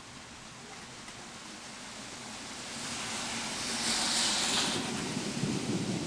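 Storm noise building: rain and wind hiss swelling, loudest about four seconds in, with a low rumble of thunder starting near the end.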